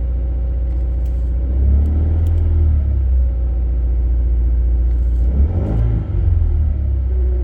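2018 Subaru WRX engine idling in neutral with the clutch engaged on a cold start; the engine note swells briefly twice, about a second and a half in and again around five and a half seconds. Near the end a steady whine returns: the cold-start noise the owner believes comes from inside the six-speed manual transmission, suspecting a defective main shaft bearing.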